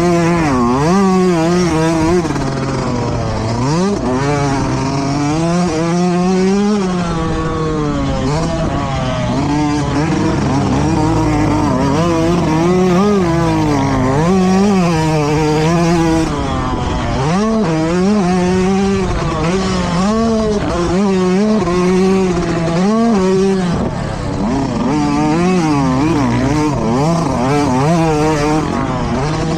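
Motocross dirt bike engines revving hard, their pitch rising and falling every second or two as the throttle opens and closes, running without a break.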